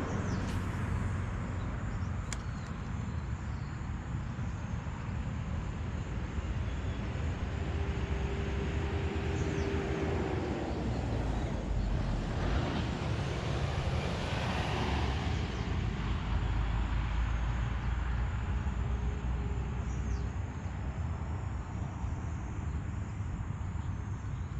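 Road traffic going past, a steady rush of tyres and engines, with one vehicle swelling up and fading away about halfway through.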